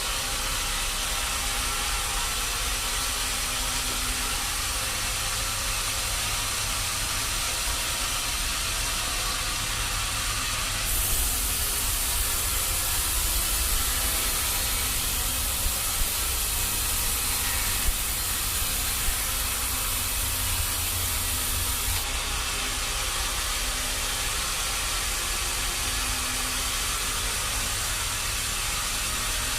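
Sawmill machinery running with a steady hissing noise and a low hum, with a few sharp knocks about halfway through.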